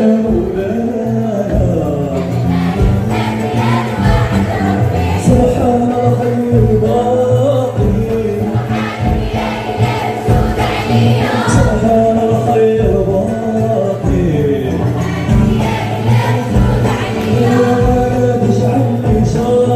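A choir singing together over instrumental accompaniment with a steady beat.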